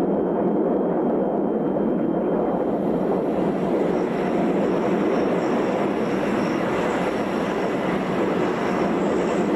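Jet aircraft engine noise: a steady, even rush that gets brighter and hissier from about three seconds in.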